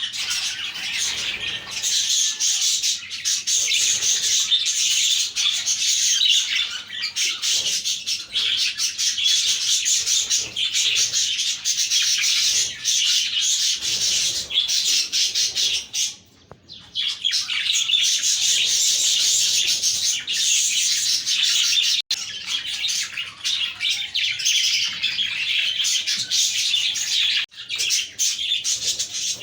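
A flock of budgerigars chirping and chattering together in a dense, continuous warble, broken once by a short pause about halfway through.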